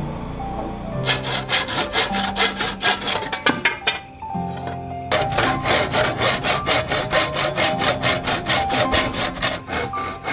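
Quick rhythmic scraping strokes, about four a second, in two runs with a short break about four seconds in, over soft background music.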